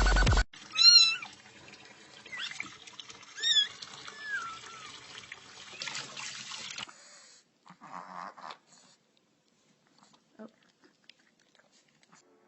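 A cat meowing about four times in short, bending calls, the first and third loudest, after a burst of electronic music cuts off at the start.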